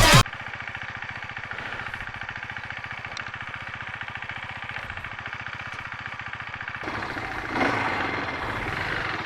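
Air-cooled Polaris ATV engine idling with a fast, even beat; about seven seconds in it grows a little louder, with a brief swell shortly after.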